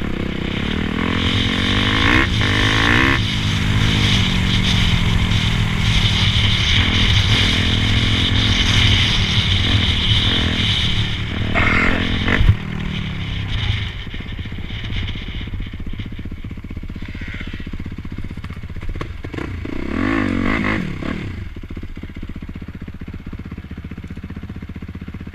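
Dirt bike engines running and revving up and down several times, louder in the first half and quieter after a sudden drop about halfway through.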